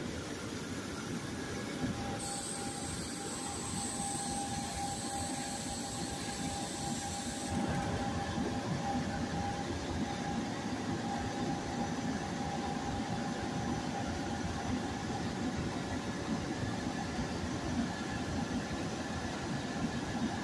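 GE Silverliner IV electric railcars standing at the station, their onboard equipment running with a steady hum. A thin steady whine comes in about two seconds in and fades out before the end.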